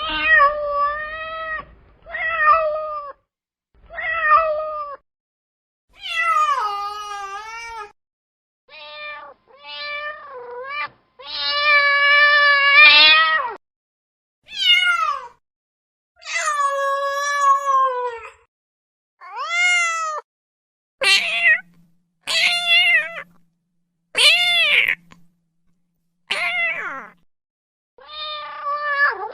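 Cats meowing: about fifteen separate meows, each a second or two long, rising and falling in pitch, some short and some drawn out.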